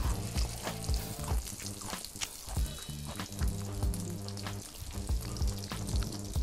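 Breaded chicken schnitzels sizzling as they shallow-fry in oil in a pan, with more oil being poured in. Background music with a steady beat plays along.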